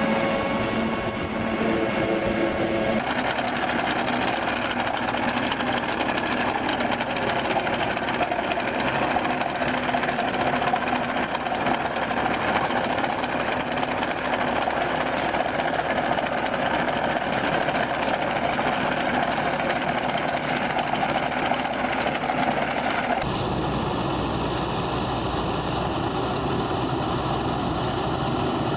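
Machinery engine running steadily, with abrupt changes in the sound about three seconds in and again near the end.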